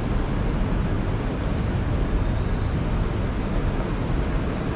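Steady rushing city street noise, a rumble of traffic mixed with wind on the microphone, with no distinct events.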